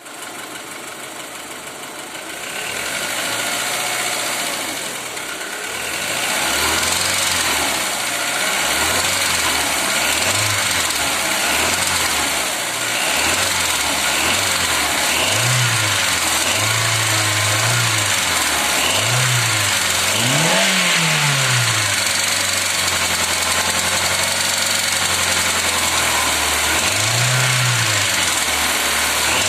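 Car engine run and revved again and again, each rev rising and falling in pitch, with a grinding and a knocking that are the fault being shown.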